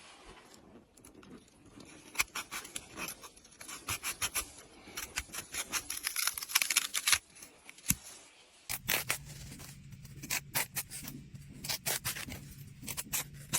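Quick runs of sharp snipping clicks, thickest in the middle. After a short break about nine seconds in, a low steady hum runs under more clicks.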